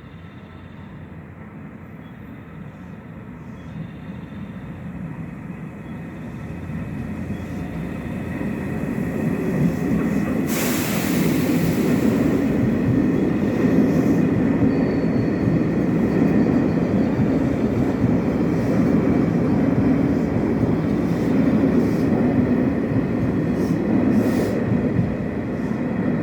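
An electric express train approaching and passing through a station at speed without stopping. Its rumble builds for about ten seconds, a brief loud rush comes as the front arrives, then the steady roll of the cars follows with scattered wheel clicks.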